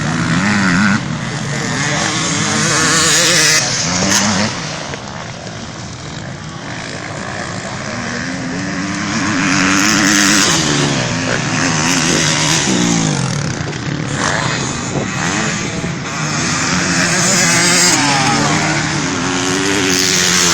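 Several motocross bikes racing, their engines revving up and down through the gears. The sound swells three times as riders pass close by and fades between passes.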